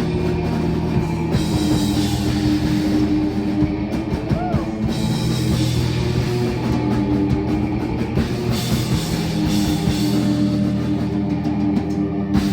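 Live rock band playing a song, with drum kit and guitar.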